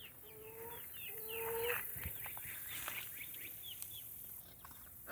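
Backyard chickens calling as they feed. A hen gives several drawn, level low notes in the first two seconds, over many quick, high, falling peeps from the chicks.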